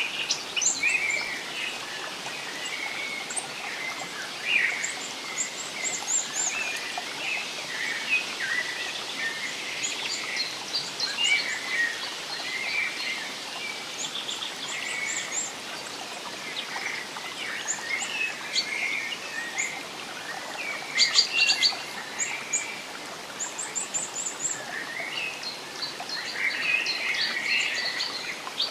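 Forest ambience of many birds chirping and singing together, short calls and trills overlapping, over a soft steady wash of running water.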